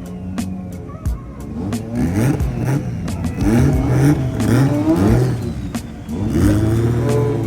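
A car engine being revved in repeated blips, the pitch climbing and dropping several times, then held at a steady higher speed near the end, with a few sharp cracks in between.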